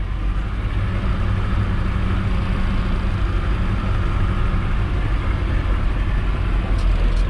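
Mercedes-Benz Atego dump truck's diesel engine idling steadily while the truck waits in line to be loaded.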